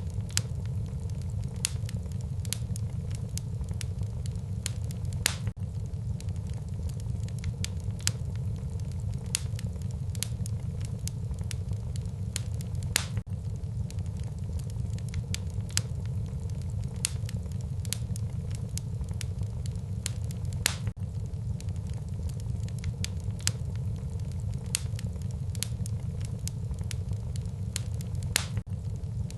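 Wood fire burning in a fireplace: a steady low rumble of the flames with irregular sharp crackles and pops, a few of them much louder.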